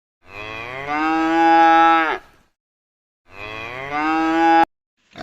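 A cow mooing twice, two long calls that rise in pitch and then hold steady. The second call is cut off suddenly.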